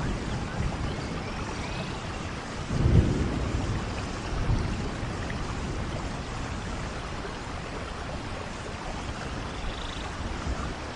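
Steady rainforest rain falling, with a brief low rumble about three seconds in.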